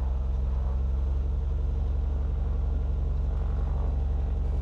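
Cessna 182 Skylane's piston engine and propeller running steadily at low power, an even low drone with no change in speed.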